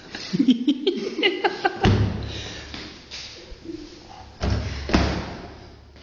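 Three heavy, booming thuds of a body knocking against a tumble dryer's drum and casing: one about two seconds in and two close together near the end.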